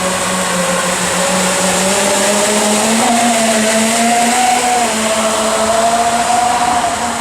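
Jet kayak's jet-surfboard booster jets running at speed: a steady whine that climbs in pitch over the first few seconds and then holds, over a constant hiss.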